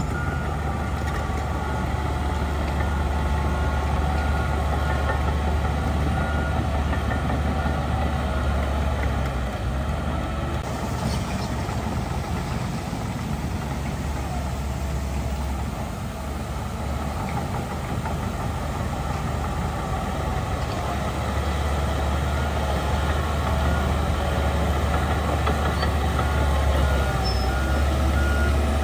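Heavy diesel earthmoving machinery (bulldozer and dump truck) running steadily. A reversing alarm beeps at the start and again for the last few seconds.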